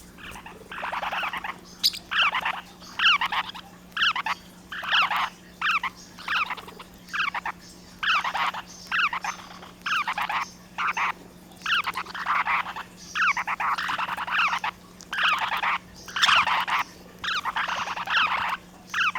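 Small pet parrots chattering in quick, repeated short bursts, about one to two a second.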